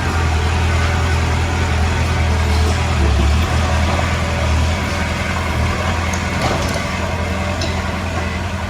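Diesel engine of a Komatsu D20P bulldozer running with a steady low drone, a little louder in the first half and easing off after about five seconds, with a few faint clanks near the end.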